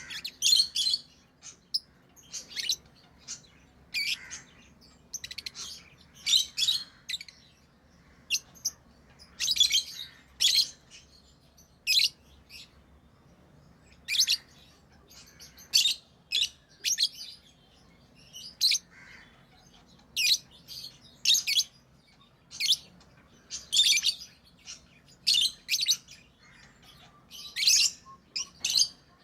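Pet lovebirds chirping: short, high-pitched calls, about one burst a second with brief quiet gaps between.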